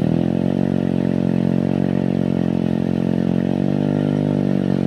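A small engine running steadily under load. Its pitch dips at the start and climbs again a little over halfway through as the engine speeds up.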